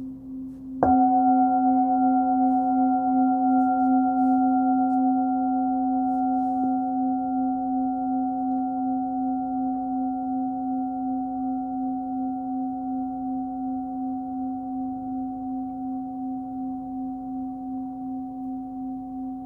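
A 16.3 cm Nepalese singing bowl, fundamental about 262 Hz (C), struck once about a second in while still ringing from before. Its low hum and several higher overtones then ring on and fade slowly, with a steady pulsing wobble.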